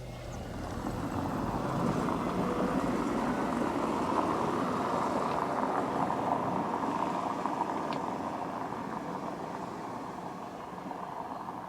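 British Airways Airbus A320-232 jet landing, its IAE V2500 turbofan engines giving a broad jet rush that swells over the first couple of seconds, holds loudest through the middle, then slowly fades as the aircraft passes.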